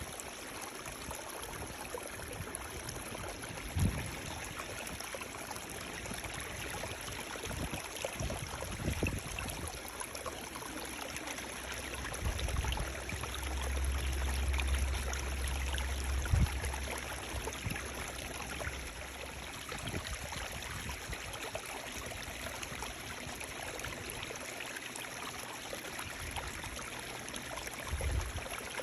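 Running water flowing steadily with a constant rushing hiss. A low rumble swells for a few seconds midway, and a few dull low thumps come and go.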